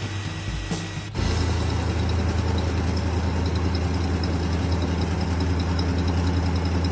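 Ford 5.4-litre gas V8 truck engine idling steadily, a low even hum that starts abruptly about a second in.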